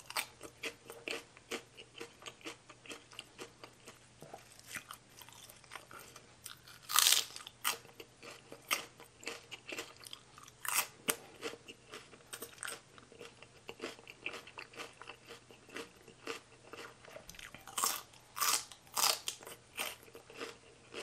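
Close-miked chewing and crunching of crisp raw vegetables, several crunches a second, with louder bites about seven, eleven and nineteen seconds in.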